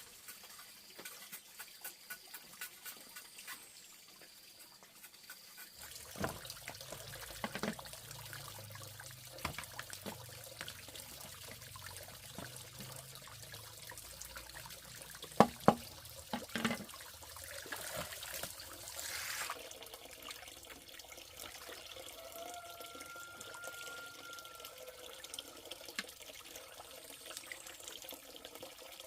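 Water running and trickling, with scattered small clicks and two sharp knocks about halfway through.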